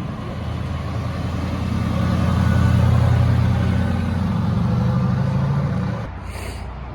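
A car engine idling with a deep, steady rumble. It swells louder a couple of seconds in, eases off again, and cuts off suddenly about six seconds in.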